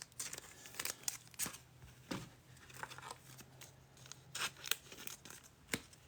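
Football trading cards being handled and slid through by hand, with soft irregular swishes, clicks and crinkles of card stock and pack wrapper.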